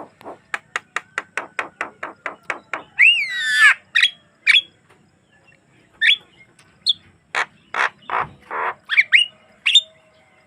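Javan myna (jalak kebo) singing: a fast run of short, even chattering notes, about five a second, for nearly three seconds, then a loud warbling squeal, followed by sharp rising whistles and a few harsh grating calls.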